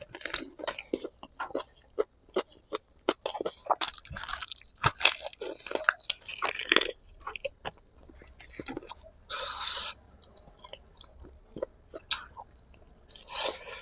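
Close-miked eating of spicy braised pig feet: wet chewing, smacking and gnawing on the skin and gristle, many short irregular clicks. Two longer breathy, noisy sounds come about nine and a half seconds in and near the end.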